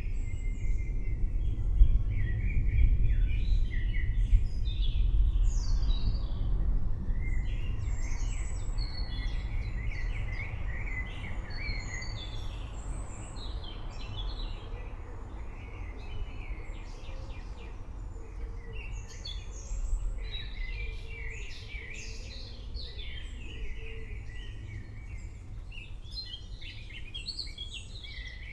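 Many birds chirping and calling, over a low rumble that is loudest in the first several seconds and then fades.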